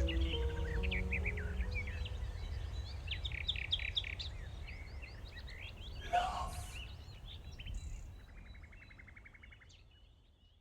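Birdsong chirping over a low drone as a psychedelic music track fades out. The last held piano notes die away in the first two seconds. A fast rattling trill comes about eight seconds in, and everything fades to silence.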